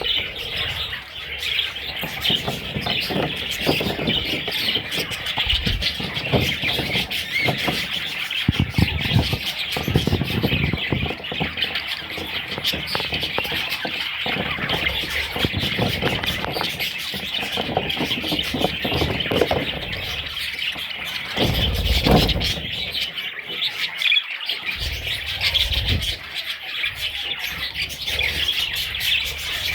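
Budgerigars chirping and chattering without a break, many high calls overlapping. There are a few low rumbling bumps partway through.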